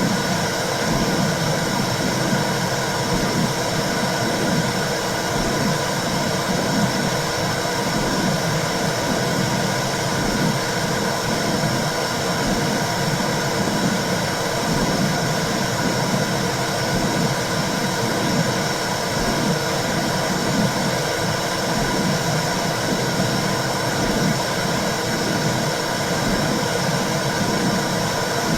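Womb sound for soothing babies: a steady whooshing noise with a low, regular pulsing whoosh about once a second, like a heartbeat heard from inside the womb.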